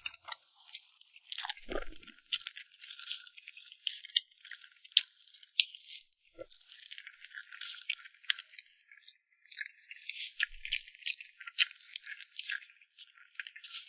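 Close-miked eating of cream cake: a dense run of small crackles and clicks of chewing and crunching.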